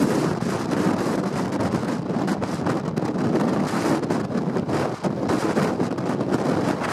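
Strong wind buffeting the camera's microphone: a loud, rushing noise that flutters unevenly in level.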